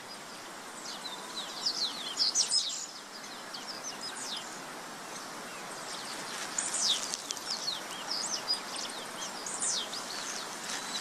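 Small birds calling with high, quick chirps that sweep sharply downward, coming in scattered runs of a few at a time over a steady outdoor background hiss.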